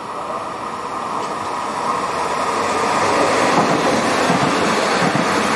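Stadler FLIRT electric multiple unit approaching along the station track and running past close by, its rolling and wheel noise growing steadily louder as it nears.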